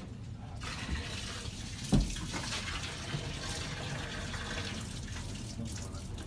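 Water pouring and splashing as the leftover water is emptied out of a removed toilet bowl, with one knock about two seconds in.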